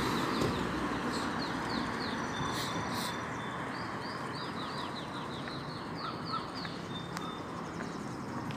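A bird singing in runs of quick, downward-sweeping chirps, several runs in a row, over steady background noise.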